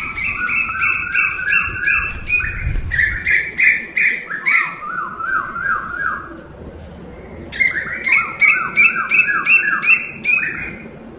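Birds calling in rapid runs of repeated chirping notes, several a second, with a higher and a lower note interleaved. The calling pauses briefly about six seconds in, then starts again.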